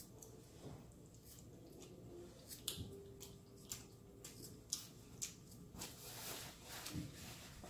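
Faint chewing and lip-smacking of someone eating saucy seafood boil, a scatter of small wet clicks and smacks. A light paper-napkin rustle around six seconds in.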